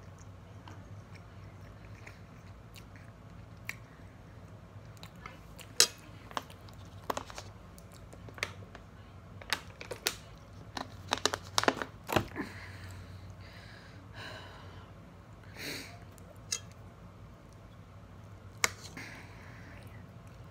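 Close mouth sounds of a person chewing food, with sharp clicks and crackles about halfway through as a plastic water bottle is drunk from. A steady low hum runs underneath.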